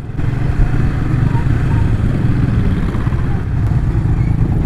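Yamaha New Vixion Lightning's single-cylinder 150 cc engine running steadily while the motorcycle is ridden, with road and wind noise over it.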